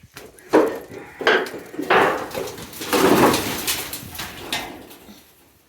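A loose piece of material lying on the ground being lifted and shifted, clattering and scraping. Several knocks come in the first two seconds and a longer scrape comes around three seconds in, fading out near the end.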